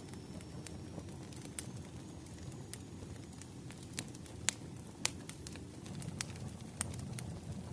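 Wood fire crackling: scattered sharp pops, the loudest about four and a half and five seconds in, over a steady low rumble of burning logs.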